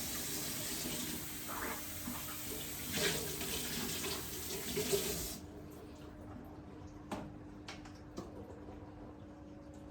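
Tap water running into a sink, stopping abruptly about five and a half seconds in as the tap is turned off; a few light knocks follow.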